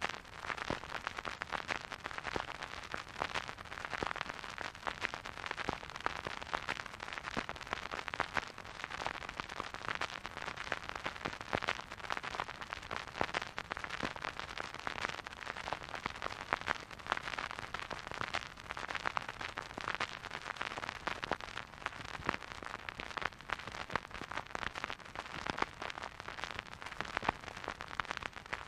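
Vinyl record surface noise on a spinning turntable: a steady soft hiss with dense, irregular crackles and pops, and no music.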